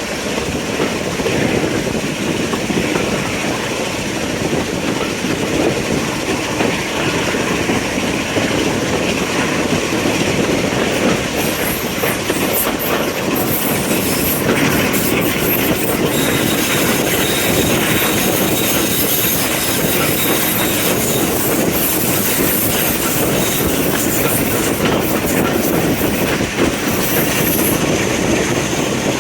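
A train running along heritage-railway track, with a steady rolling noise of wheels on rails. A faint high squeal from the wheels comes in a little past the middle.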